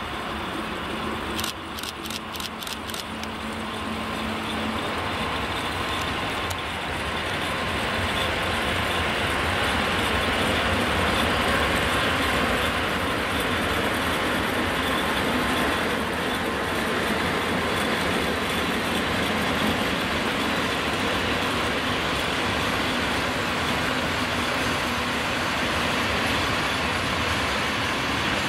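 Freight train passing: an electric locomotive hauling a long rake of hopper wagons. A low hum and a quick run of clicks in the first few seconds give way to the steady rumble and rattle of the wagons rolling by, which grows louder over the first several seconds and then holds.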